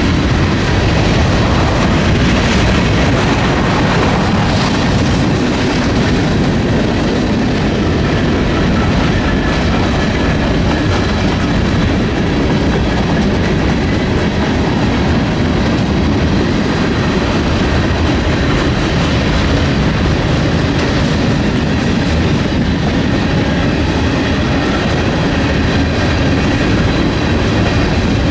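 Freight train cars rolling past at speed, a loud, steady clatter of steel wheels over the rails that does not let up.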